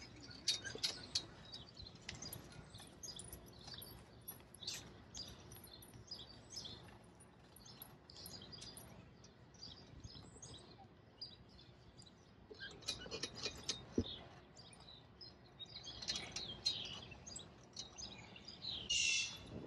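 Faint birdsong: small birds giving short, high chirps scattered throughout, coming in denser runs at the start and toward the end.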